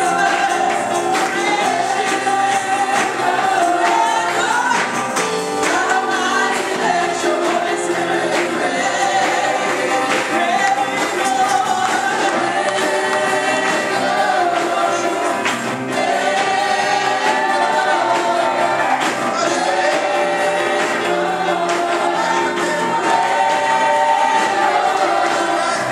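Congregational gospel worship singing: a choir of voices singing over instrumental accompaniment, held notes gliding between pitches.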